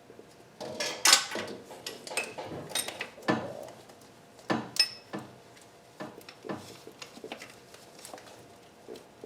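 Hand tools and metal parts clinking and knocking irregularly while working on the intake manifold of a Nissan KA24DE engine. One clink about five seconds in rings briefly.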